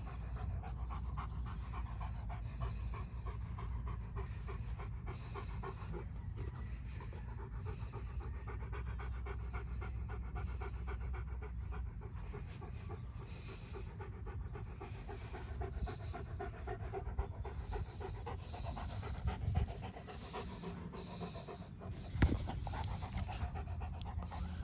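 A dog panting rapidly and steadily, breath after breath with no pause. A single sharp knock sounds near the end.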